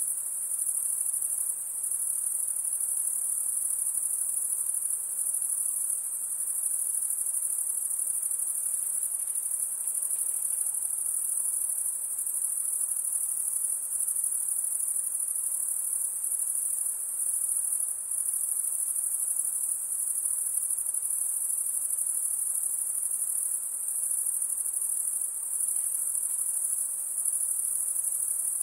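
A dense, steady, high-pitched insect chorus, a continuous shrill trill with only brief small dips now and then.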